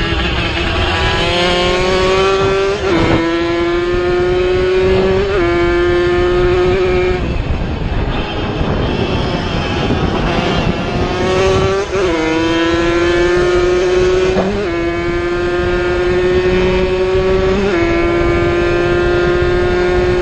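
Two-stroke racing motorcycle engine running at high revs, its note climbing slowly and dipping sharply about five times as it changes gear. A rougher, noisier stretch without a clear note comes about halfway through.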